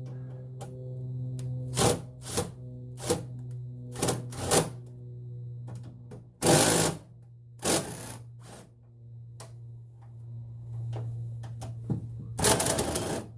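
Milwaukee cordless ratchet with a 10 mm socket running in short bursts, about eight of them, the longest about halfway through and near the end, as the factory airbox bolts are run out. A steady low hum continues underneath.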